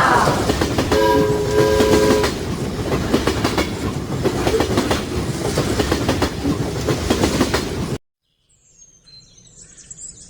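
Train running past with wheels clattering over rail joints. A chord-like horn blast sounds for about a second early on. The sound cuts off suddenly about eight seconds in, leaving faint bird chirps near the end.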